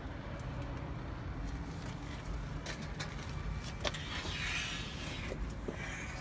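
Steady low vehicle rumble, with a few sharp clicks about midway and a brief hiss a little after.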